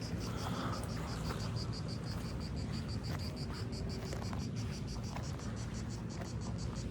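Insects chirping in a steady, even pulse of about seven chirps a second, over a low steady rumble.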